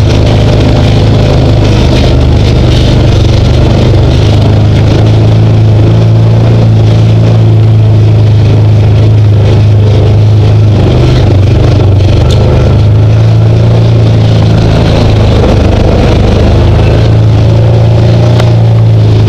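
Side-by-side UTV engine running steadily while the vehicle is under way on a trail: a loud, continuous low drone with only slight changes in pitch.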